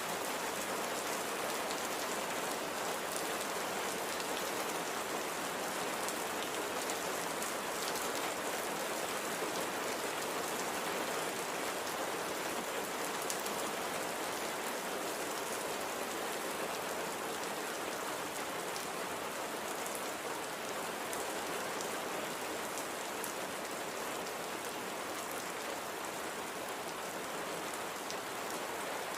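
Steady light rain falling, an even patter with fine drop ticks.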